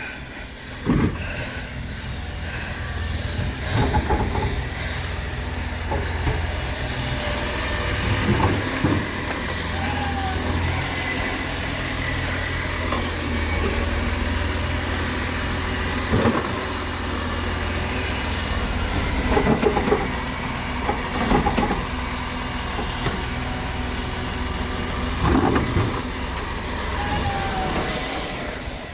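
Diesel engine of a side-loading FOGO collection truck running steadily, with about seven loud knocks and clanks spread over the half-minute from its lifting arm and bins.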